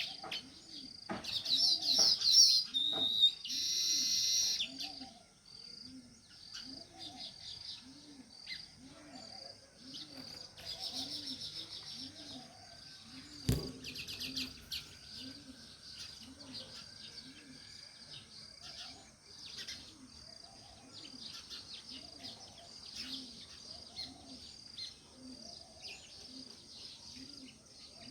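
House sparrows chirping, a dense burst of overlapping chirps in the first few seconds, then scattered chirps. Underneath, a low sound repeats about once a second, and a single sharp click comes about halfway.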